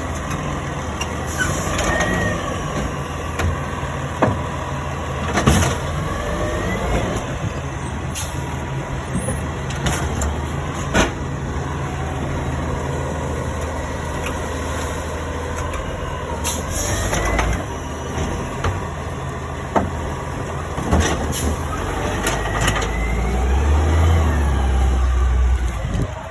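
Garbage truck engine running steadily, with sharp clanks and knocks every few seconds and a few short rising whines. The engine gets louder near the end.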